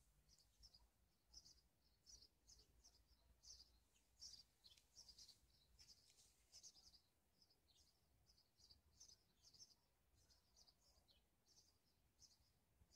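Faint birdsong: a steady scatter of short, high chirps, some falling in pitch, over near silence.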